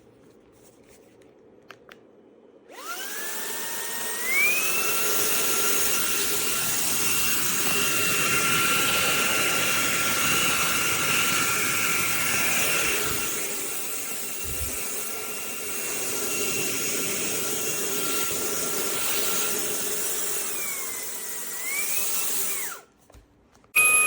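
Fanttik Slim V8 Apex cordless handheld car vacuum switched on about three seconds in, its high motor whine rising as it spins up, then running steadily. Near the end the whine dips and climbs again, and the motor cuts off abruptly just before the end.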